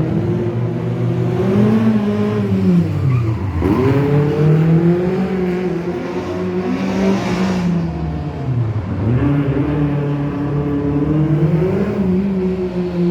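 Rally car engine revving hard under load, its pitch wavering up and down, dropping sharply twice, about a third of the way in and again about two-thirds in, each time climbing straight back as the throttle is reapplied.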